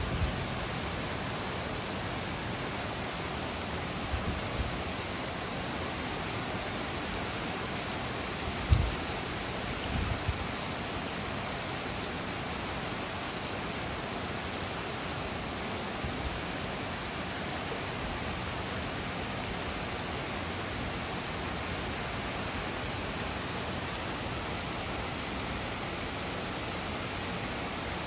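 Steady storm rain pouring on trees and a street, with a few brief low thumps, the loudest about nine seconds in.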